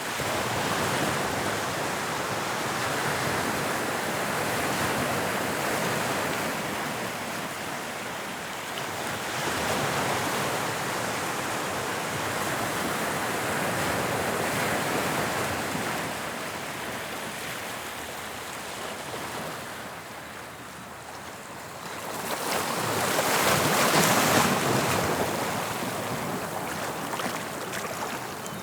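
Sea waves breaking and washing on the shore of the English Channel, the surf swelling and ebbing every few seconds, with the loudest wave crashing near the end.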